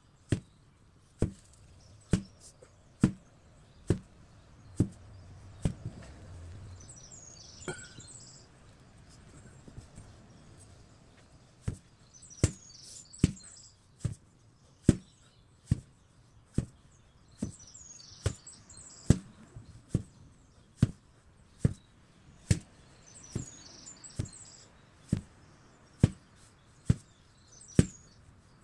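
An 8 kg sledgehammer striking again and again in a steady rhythm, a little more than one blow a second, with a pause of a few seconds after about eight seconds before the blows resume. Birds chirp in short bursts now and then.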